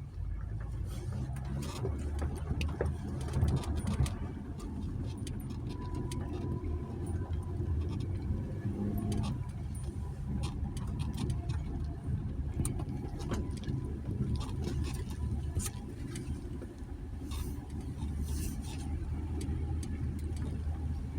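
Jeep Gladiator pickup driving slowly along a rough dirt trail: a steady low drone of engine and tyres, with scattered clicks and knocks throughout.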